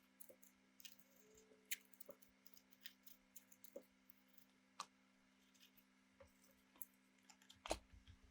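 Faint, irregular small clicks and taps, a dozen or so scattered over several seconds, over a steady low hum.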